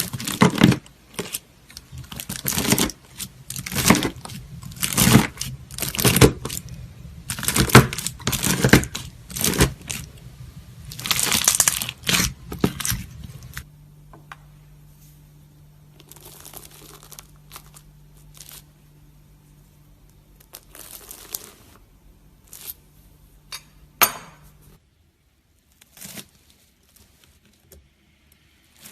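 A knife cutting and pressing through crunchy slime, giving dense crackling crunches in a series of strokes about a second apart. Partway through the crunches turn quieter and sparser, then become a few scattered crackles.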